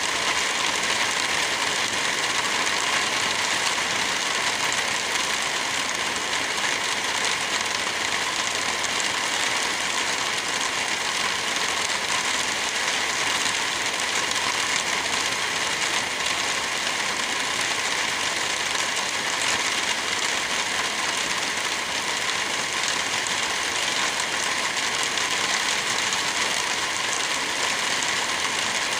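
Steady rain: an even, unbroken hiss with no thunder.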